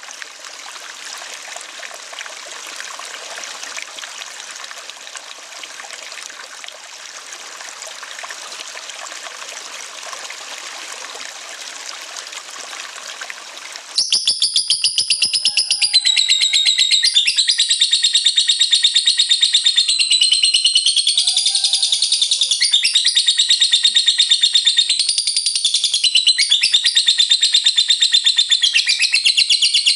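Steady rushing of running water for about the first half, then it cuts abruptly to a lovebird's loud, long 'ngekek' chatter: a fast, continuous rattling trill whose pitch steps up and down.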